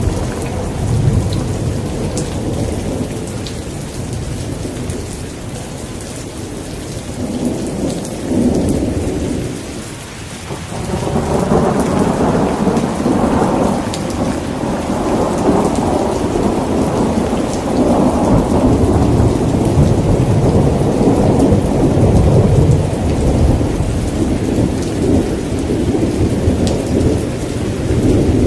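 Thunderstorm: steady rain with long rolls of thunder. The thunder eases off about a third of the way in, then builds into a heavier, sustained rumble that carries on to the end.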